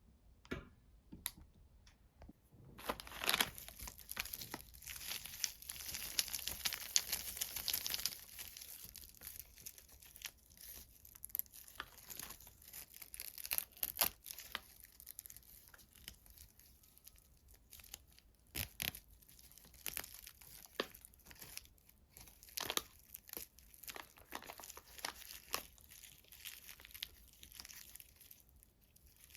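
Wrapper around a chocolate being torn and crinkled. A dense run of crackling starts about three seconds in and lasts some five seconds, followed by scattered crinkles and crackles.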